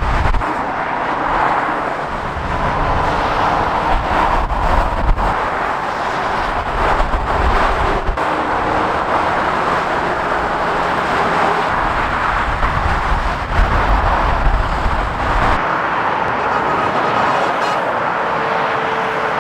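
Steady motorway traffic noise: tyres and engines of passing vehicles, with a deep rumble swelling and fading several times as heavier vehicles go by.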